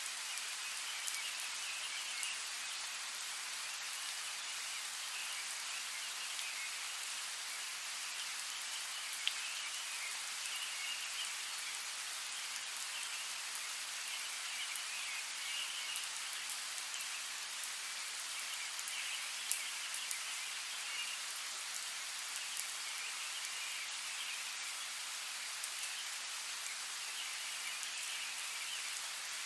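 Steady rain falling, an even hiss with scattered sharper drop clicks.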